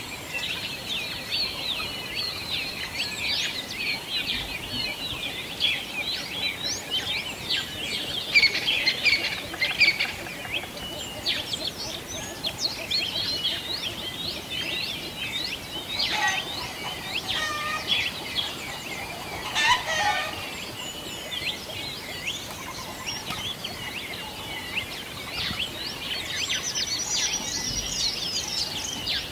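A dense chorus of small songbirds chirping and trilling, with two short, lower chicken calls a little past the middle.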